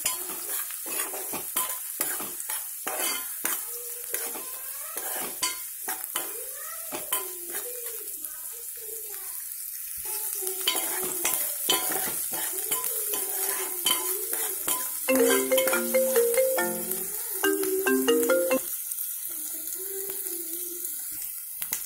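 Chopped onions and tempering spices sizzling in hot oil in an aluminium pot, with a spatula scraping and clicking against the pot as they are stirred. A wavering background tune runs underneath, and a run of short stepped notes stands out loudest in the second half.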